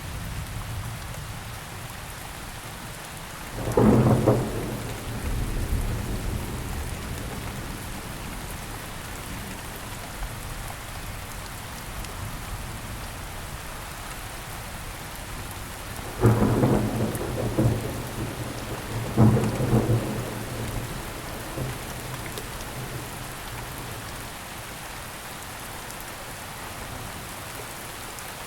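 Steady rain falling, with three loud deep bursts that fade over a second or two: one a few seconds in and two close together past the middle.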